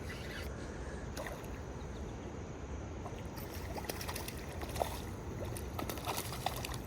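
River water flowing steadily, with scattered small splashes and clicks in the second half.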